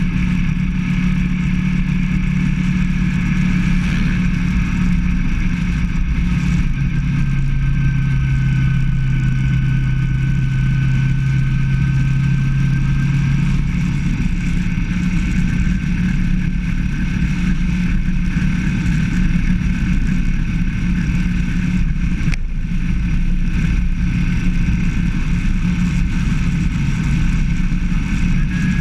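Motorcycle engine running steadily under way, its note dropping lower for several seconds about a third of the way in and then rising back, over a low rumble of wind.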